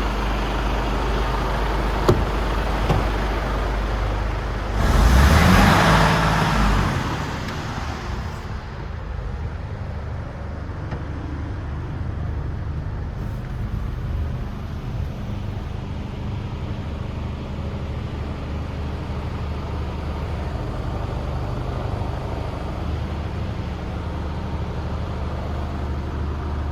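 Mercedes Actros 2545 tractor unit's 12.8-litre straight-six diesel running at a steady idle. A loud burst of hissing lasts about two seconds, starting about five seconds in, with a sharp click a few seconds before it.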